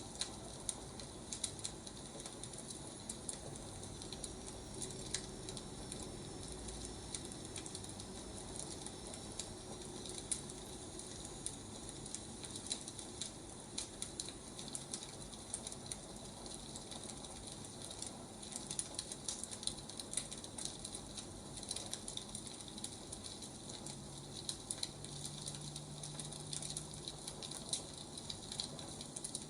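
Firewood burning, crackling with irregular sharp pops over a steady hiss.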